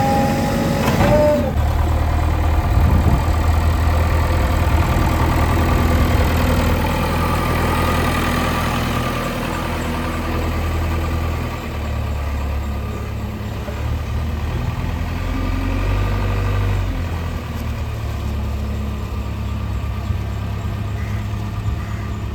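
Heavy diesel engine running, a low steady rumble whose depth and level shift every few seconds as the machine works.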